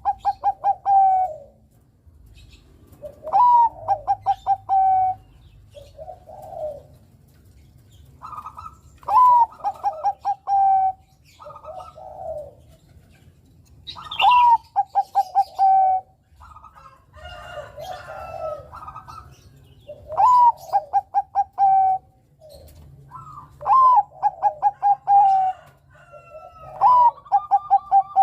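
Bangkok-strain perkutut (zebra dove) cooing: a repeated phrase every few seconds, each a rising note, a quick stutter of short notes, then a held note, with softer coos in between.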